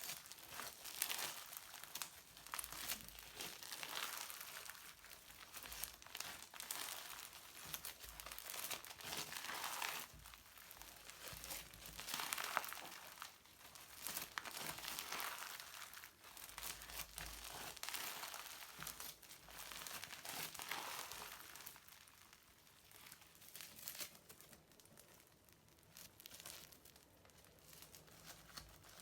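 Crunchy slime with modelling foam being squeezed and stretched by hand, a crinkling, crackling noise that swells and fades with each squeeze. It grows quieter in the last several seconds.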